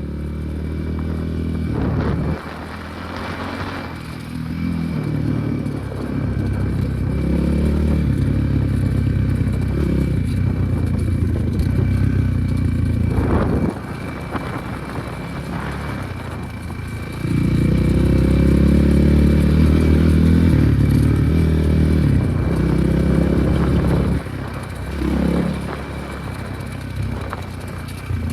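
Enduro motorcycle engine running on a ride, its pitch climbing and falling as the rider works the throttle and gears. The throttle is shut off briefly about two seconds in, again about halfway, and again near the end, and is opened hard a few seconds after the halfway point.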